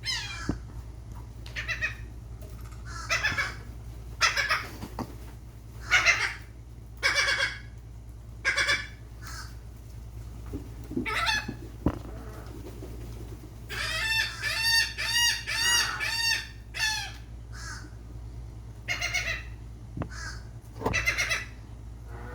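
Gulls calling: short harsh calls repeated about once a second, with a fast run of quick yelping calls for about three seconds near the middle.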